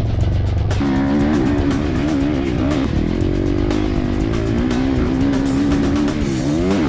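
Motocross dirt bike engine revving, its pitch wavering and climbing and falling as the rider works the throttle and gears, with a sharp rise near the end, over background music with a beat.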